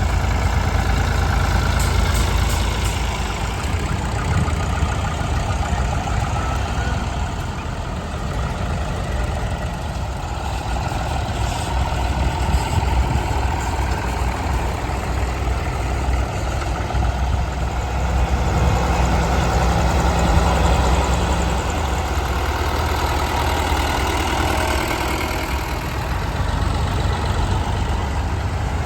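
Vintage tractor engine running steadily at idle, a continuous low throb.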